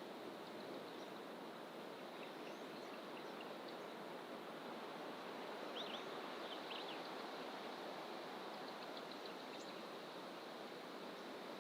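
Faint birds calling in dense fynbos bush over a steady rushing wash of background noise. A few short down-slurred chirps come about halfway, and a quick run of high ticking notes follows a couple of seconds later.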